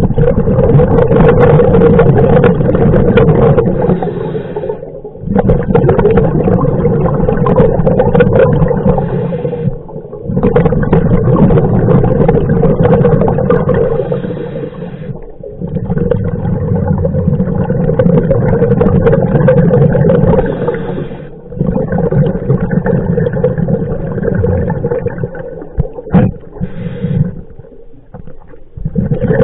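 A scuba diver breathing through a regulator underwater. The loud bubbling breath noise comes in long stretches about every five seconds, each separated by a brief pause.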